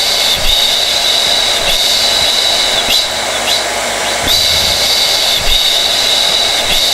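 Hair dryer running steadily: a constant rush of blown air with a high whine on top.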